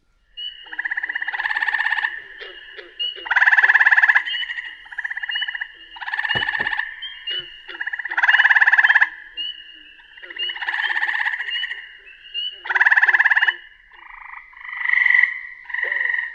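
Recorded frog call: pulsed trills, each about a second long, repeated every second or two and partly overlapping, as from several calling frogs. Faint short, higher notes sound between the trills.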